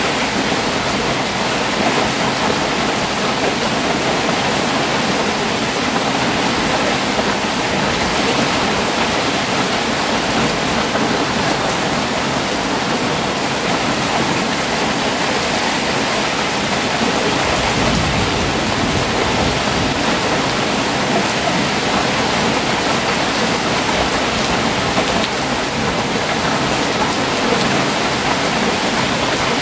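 Heavy rain falling steadily, a dense even hiss, with a brief low rumble about two-thirds of the way through.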